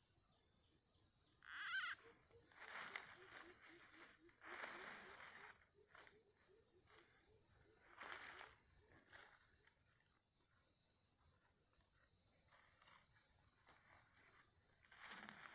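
Faint steady high-pitched insect trill, crickets or similar, with a short wavering call about two seconds in and a few soft rustling swishes.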